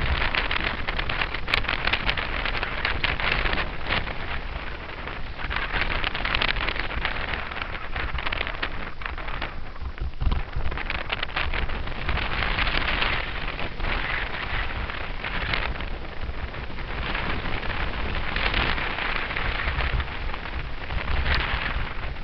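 Rushing air buffeting a helmet-mounted camera's microphone as a bicycle coasts downhill, mixed with road noise from the tyres; the hiss swells and eases every few seconds.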